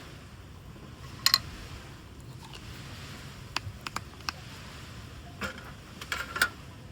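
A handful of short, sharp clicks and knocks, scattered irregularly over a steady low background noise: two close together about a second in, three more around four seconds in, and a cluster near the end.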